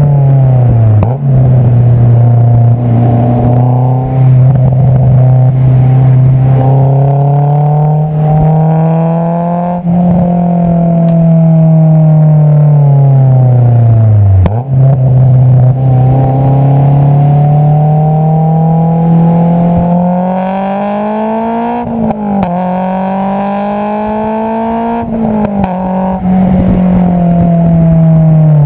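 Exhaust note of a Honda S2000's 2.2-litre four-cylinder engine through an Invidia Q300 exhaust, heard close up while driving. The pitch climbs under acceleration and drops sharply at gear changes about a second in and again near the end, with a long falling stretch around the middle as the revs come down.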